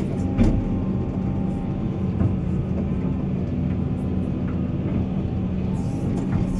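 Heavy diesel earthmoving machinery running steadily under load, with a brief knock about half a second in.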